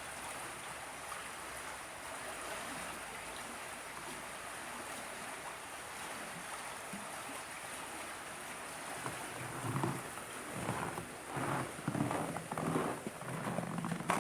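Steady rush of open, unfrozen running water. About two thirds of the way in, footsteps in snow begin, irregular and repeated, and they run over the water sound.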